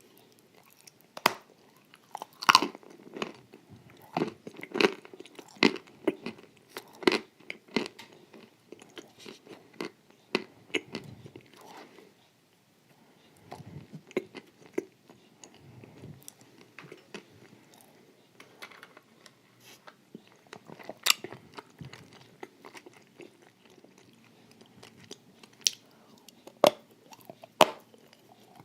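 A person biting and chewing a crunchy, creamy dessert of wafers and halva close to the microphone: irregular sharp crunches with softer wet chewing between them, with a brief lull about twelve seconds in.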